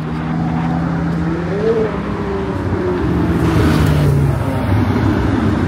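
McLaren supercar's engine running at low revs as it drives slowly past, the sound swelling loudest about three and a half to four seconds in.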